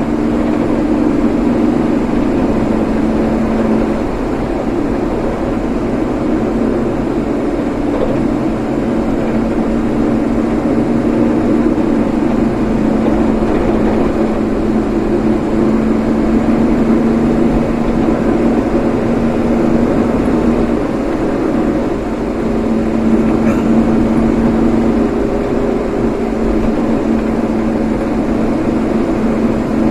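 Vehicle driving steadily along a road, with a constant engine hum and road noise.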